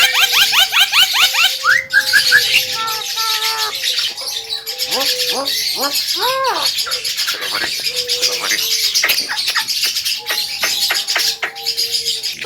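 Javan myna singing a loud, varied song: a fast run of rising chips, then mixed whistles and arching notes, with long level whistled tones held near the middle and again near the end.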